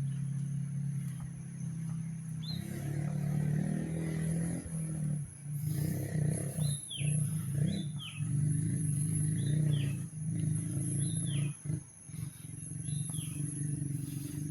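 A bird repeatedly giving a short, high call that falls in pitch, about every one to two seconds, over a louder steady low hum like a running engine and a thin, steady high whine.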